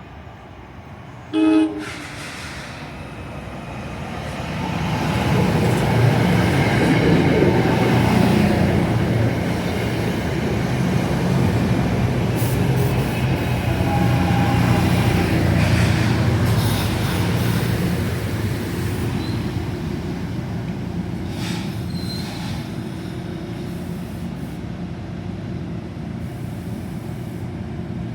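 A passenger train sounds a short horn blast, then rumbles past: the noise of wheels and the train builds, holds for about a dozen seconds, and slowly fades away.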